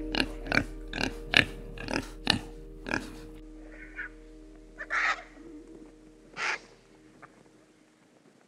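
Domestic pig grunting in short, sharp bursts, about two a second, over background music that fades out. It then goes quieter, with a couple of faint hissy sounds.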